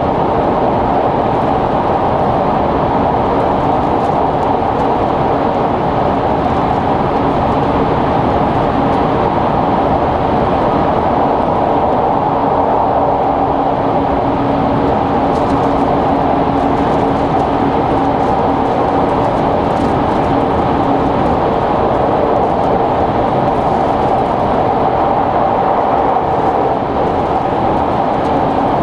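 Steady running noise inside the passenger car of a Sonic limited express, a JR Kyushu tilting electric train, under way. A low steady tone joins the noise for several seconds in the middle.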